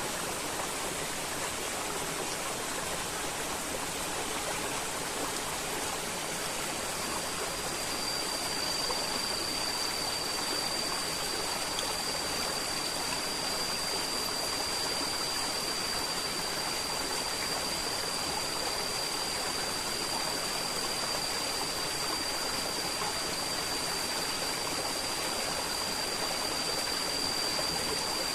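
River water flowing in a steady rush. About seven seconds in, a thin, steady high tone comes in and holds.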